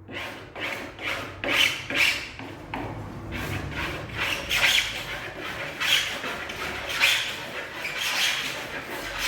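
Hand scraping strokes along the cut edge of an MDF panel, taking off the rough edge left by the cut. The strokes are scratchy and a little squeaky, about two a second.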